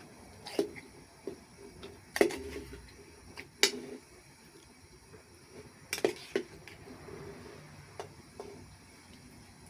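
Kitchenware handled during cooking: scattered sharp knocks and clinks of utensils against pots and dishes, about eight in all, the loudest two or three seconds in.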